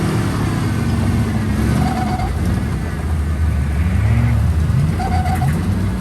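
Rock-crawling buggy's engine running and revving up and down, its pitch rising and falling, as the vehicle strains to climb off a large rock it is hung up on.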